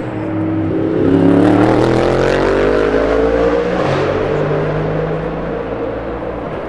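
Race car engine accelerating on track, its pitch climbing steadily for about three seconds, then a lower, steadier engine note carries on.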